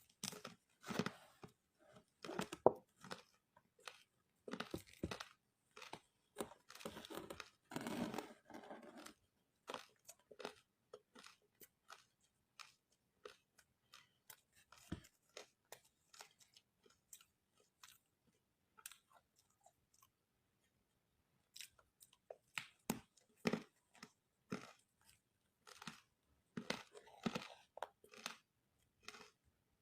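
A person biting and chewing crunchy ice made with matcha: sharp crunches that come thick and fast about a third of the way in, thin out to scattered single crunches in the middle, and pick up again near the end.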